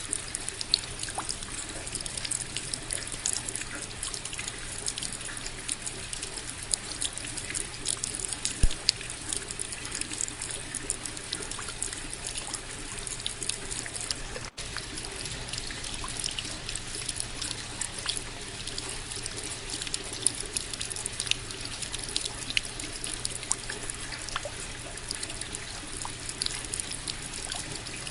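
Steady rainfall, with many small individual drops striking close by throughout. The sound cuts out for an instant about halfway through.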